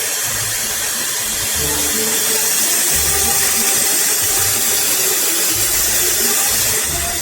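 Shark FlexStyle hair dryer blowing air with a steady, loud rushing hiss, over background music with a low bass line.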